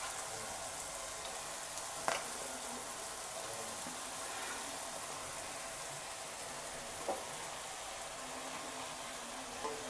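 Oil sizzling steadily in a pot of frying onions and tomatoes as chopped ridge gourd is tipped in, with two light knocks about two seconds in and again about seven seconds in.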